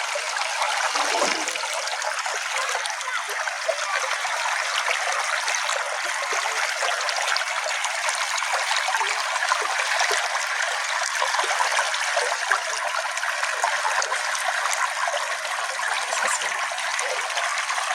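Small natural stream flowing steadily: an even splashing and trickling rush of water, with no deep rumble.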